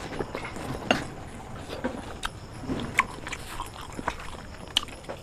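Close-up mouth sounds of biting and chewing a chicken leg piece: wet smacks and clicks at irregular intervals, the sharpest about a second in, at three seconds and near the end.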